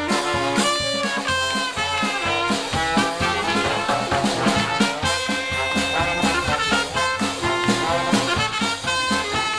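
Live swing jazz with trumpet and trombone over a steady beat of about two beats a second.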